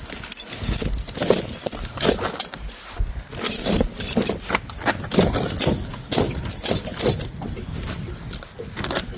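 Steel tire chain clinking and rattling as its links are dragged and worked over a loader's rear tire: a run of irregular metallic clanks and jingles, busiest in the middle and easing off near the end.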